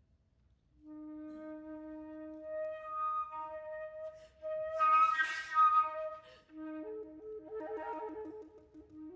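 Solo flute played with contemporary techniques: about a second in a soft low note is held, then around the middle comes a loud, air-filled breathy passage, and near the end a note wavers rapidly up and down.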